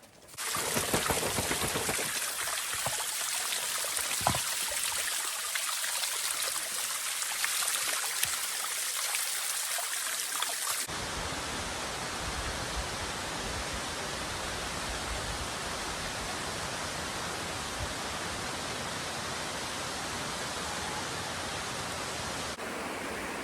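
Steady rush of a waterfall, the falling water making an even, full hiss. About 11 seconds in, the sound abruptly turns deeper and more even.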